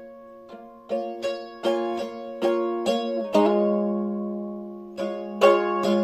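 A small acoustic string instrument strummed in chords as a song's intro: a run of separate strokes, a chord left ringing for a couple of seconds a little past halfway, then quicker strums near the end.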